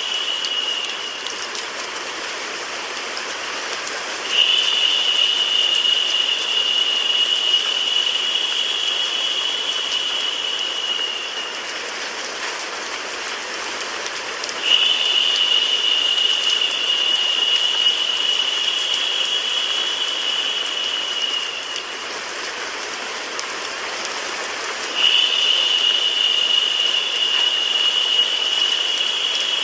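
Recorded rain mixed with white noise: a continuous even hiss. A high steady tone comes in three times, for about seven seconds each, and the whole sound gets louder while it lasts.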